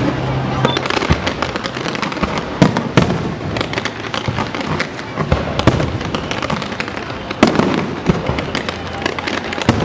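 Fireworks display: a continuous stream of bangs with a dense crackle of small pops between them. Several louder bangs stand out, around a quarter, half and three-quarters of the way through.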